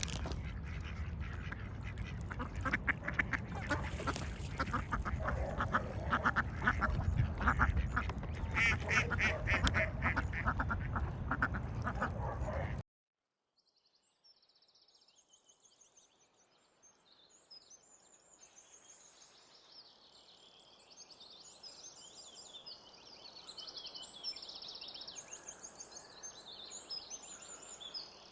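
A flock of ducks quacking, many at once, as they gather to be fed, over a low rumble. About thirteen seconds in it cuts off abruptly, and after a moment of silence comes high-pitched, rapidly repeated chirping that grows louder.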